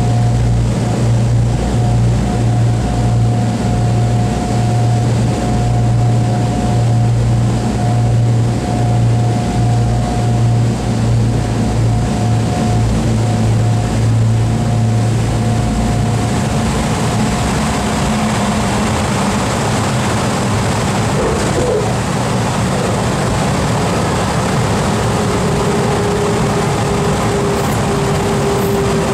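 Boeing B-29's Wright R-3350 radial piston engines running steadily, a deep drone with a higher whine over it. The whine fades out about two-thirds of the way through and a lower steady tone comes in near the end, as the engine or propeller speed changes.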